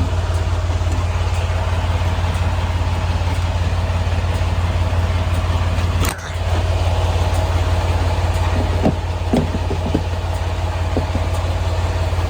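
Semi-truck diesel engine idling steadily, with a brief drop-out about halfway through.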